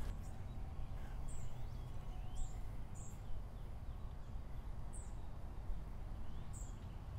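A small bird chirping: short, high chirps, about six of them at uneven gaps, over a low steady background rumble.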